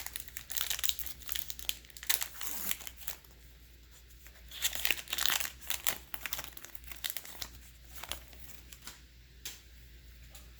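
A baseball card pack's wrapper being torn open and crinkled, in two bouts of crackling, followed by a few faint ticks.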